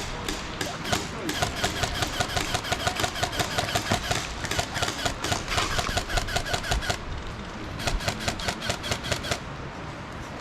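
Rapid, rhythmic clatter of automatic airsoft guns firing, in one long burst from about a second in to about seven seconds, then another shorter burst near the end.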